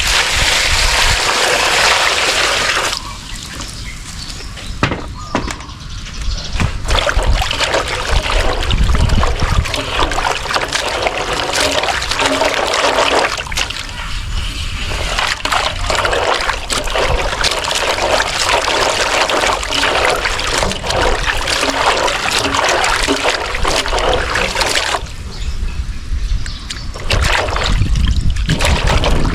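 Water sloshing, splashing and trickling, with busy crackly handling noise, as fresh turmeric roots are washed by hand.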